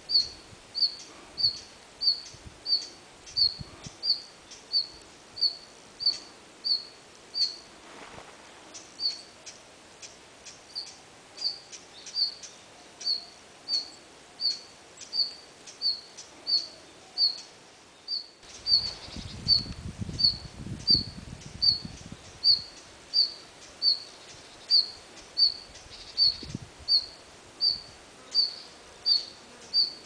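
Red-flanked bluetail calling: a steady series of short, high single notes, about three every two seconds. A low rumble joins for a few seconds from about eighteen seconds in.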